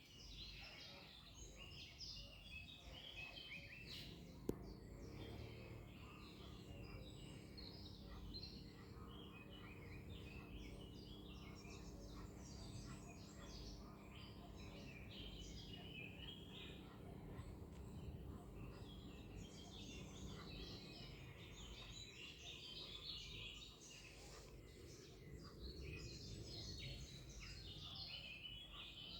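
Many small birds chirping and calling at once, faint, with a low steady hum underneath for much of the time and a single sharp click about four seconds in.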